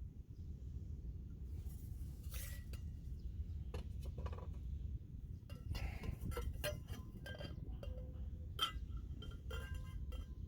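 Cookware and utensils being handled, clinking: a scatter of short, ringing clinks that come thicker from about halfway through, over a steady low rumble.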